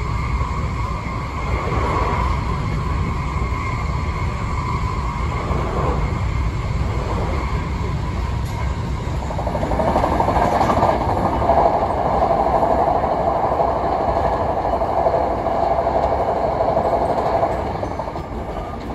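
Running noise inside an electric commuter train car moving at speed: a steady low rumble with a faint whine. About halfway in it grows louder with a rough, mid-pitched rushing, then eases shortly before the end.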